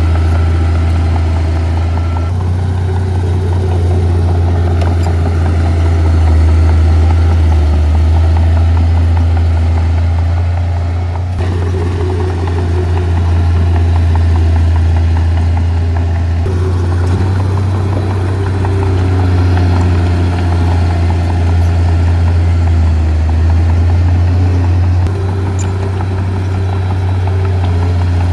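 Heavy earthmoving machinery's diesel engine running steadily with a deep, continuous hum. Its pitch rises and falls now and then as the load changes.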